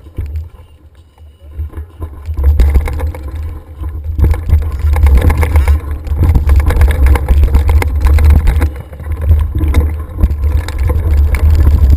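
Wind buffeting the microphone of a camera riding on a moving mountain bike, with the bike's clattering over the trail. It is quieter at first and grows loud about two seconds in.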